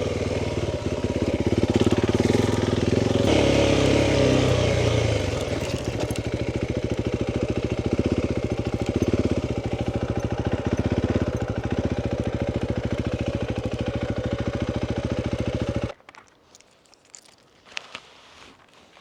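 Motorcycle engine running. Its pitch and loudness shift a couple of times in the first five seconds, then it runs steadily. It cuts off abruptly near the end as the engine is switched off, leaving only a few faint clicks and rustles.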